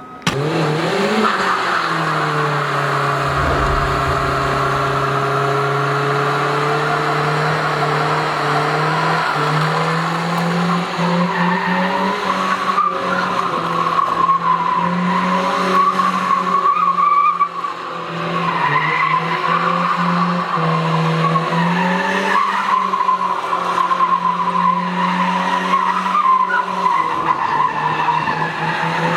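Nissan 1400 bakkie's engine held at high revs while its tyres squeal and skid continuously, the engine pitch dipping and rising a few times.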